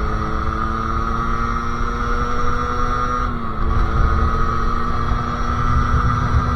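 Sherco SM-R 50cc two-stroke supermoto engine, with a KRM exhaust and Polini CP 17.5 carburettor, running at a steady high-revving cruise with the throttle held. The pitch dips slightly a little past halfway, over a low rumble of wind and road noise.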